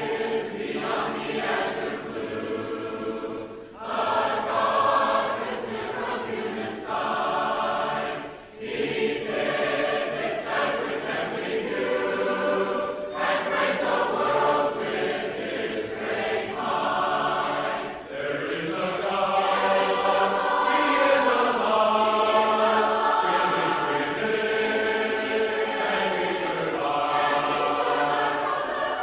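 Congregation singing a hymn a cappella, voices only with no instruments, in sustained phrases with short breaks between lines.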